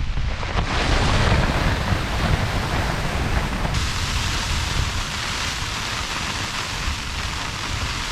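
Storm wind in a snowstorm, gusting and battering a tent, with wind buffeting the microphone; a little over a third of the way in, the noise shifts abruptly to a brighter hiss.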